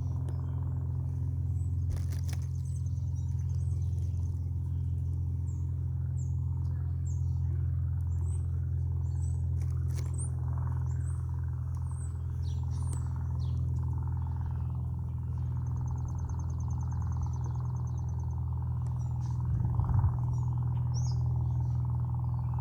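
Songbirds chirping in short high calls, with a fast trill about two-thirds of the way in, over a steady low hum that is the loudest sound.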